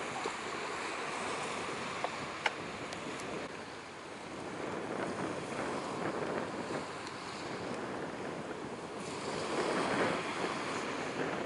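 Steady rushing of wind on the microphone mixed with the wash of waves, swelling louder near the end, with a couple of sharp clicks a couple of seconds in.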